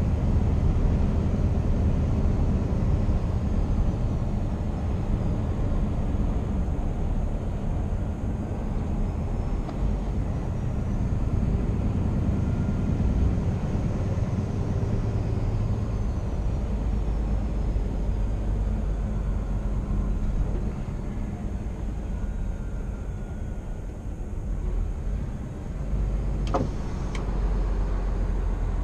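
2016 Scania R490 truck's 13-litre inline-six diesel running under way, a steady low rumble mixed with road noise, with one sharp click near the end.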